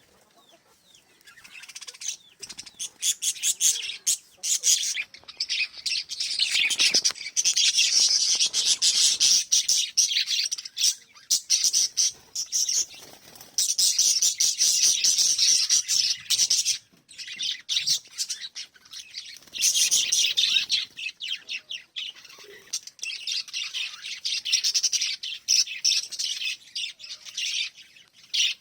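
Small pet parrots chattering together in a continuous stream of rapid, high chirps and squawks, with a couple of brief lulls.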